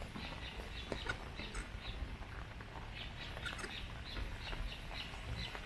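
Small birds chirping in many quick, short, high notes over a low steady rumble.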